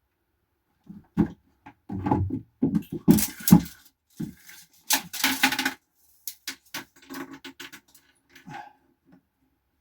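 Irregular knocking and clattering of objects being handled on a boat's wooden floor and cabin, with two louder scraping, rattling stretches about three and five seconds in.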